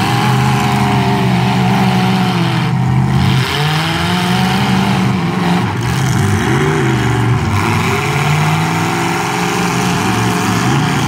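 Demolition derby truck engines revving hard, the pitch rising and falling again and again.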